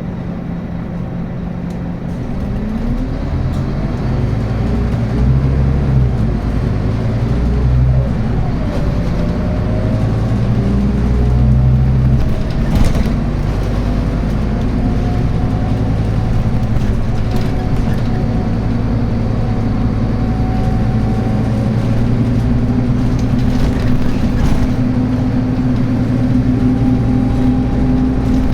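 Scania N280UB city bus's diesel engine and ZF Ecomat automatic gearbox pulling away. The engine's pitch climbs from about two seconds in and drops back at a couple of gearshifts, then it runs steadily as the bus cruises.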